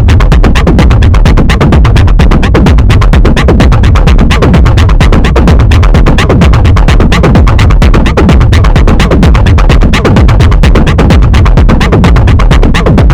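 Techno played live on a Moog DFAM analogue drum synthesizer and an Arturia MicroFreak synthesizer: a fast, steady percussion pattern over heavy bass, with short sequenced synth notes that change in pitch.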